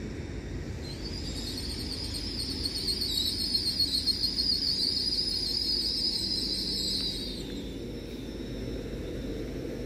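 LNER Class 801 Azuma electric train rolling slowly past, with a low rumble from its wheels and a wavering high-pitched squeal that starts about a second in and dies away after about seven seconds.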